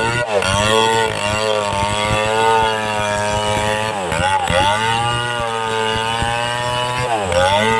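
Chainsaw running at high speed in a cut through a tree trunk. Its engine pitch dips briefly three times, near the start, about halfway and near the end, as the chain bites, and each time recovers.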